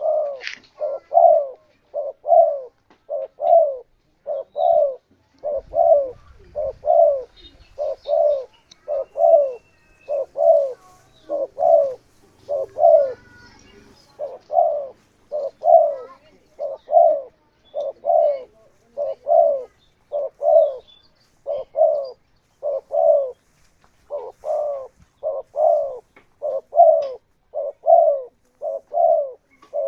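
Spotted dove (tekukur) cooing: a long, even run of short low coos, about two a second, with no pause.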